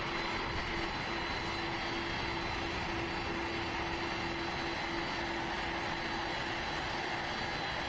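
Jet engines of Air Force One, a Boeing 747 (VC-25A), running: a steady rush with a few held whining tones and no change in level.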